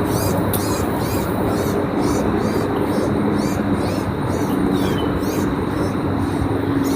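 A small bird's rapid, repeated high-pitched distress calls, about three a second with a couple of short pauses: the grackle caught by a hawk, still alive. A steady low mechanical hum runs beneath.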